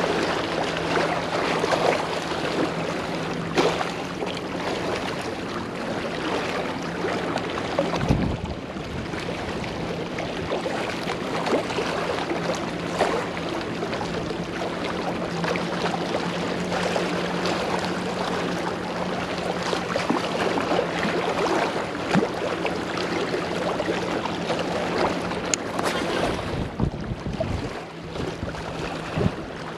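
Steady wind and water noise with scattered small knocks, over a constant low hum that drops out briefly about eight seconds in and again near the end.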